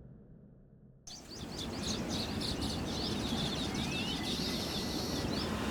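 Forest ambience: several birds chirping and calling over a steady low background noise, fading in after about a second of silence. One call near the middle rises in pitch.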